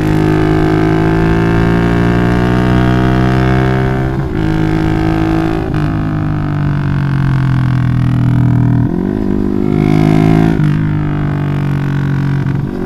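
Bored-up Yamaha Jupiter MX single-cylinder four-stroke motorcycle riding on a loud aftermarket Requsan exhaust, its drone holding and sliding in pitch with the throttle. The note breaks and shifts about four, nine and ten and a half seconds in.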